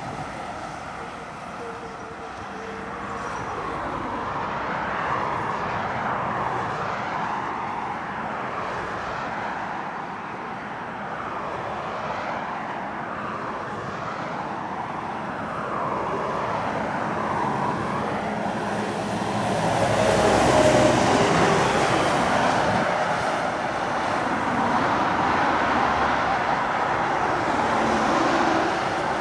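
Heavy trucks' diesel engines pulling hard up a steep climb, with tyre and road noise. The sound swells and fades as they pass, loudest about two-thirds of the way through.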